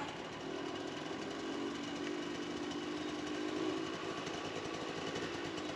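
Off-road dirt bike engine running at fairly steady revs, its pitch wavering slightly.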